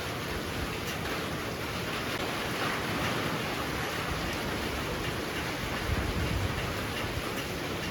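Heavy rain pouring steadily, swelling a little about three seconds in, with a brief low rumble about six seconds in.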